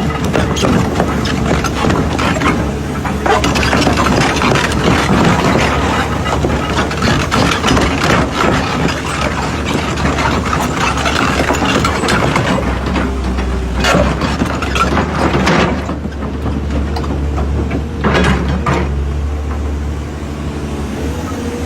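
Excavator diesel engine running steadily, with metal clanks and knocks over it. A few sharp clanks stand out in the second half.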